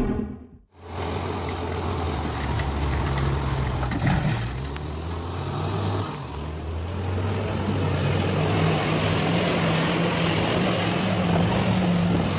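Heavy truck engine running steadily over rumbling outdoor noise, its pitch rising slightly a little past the middle.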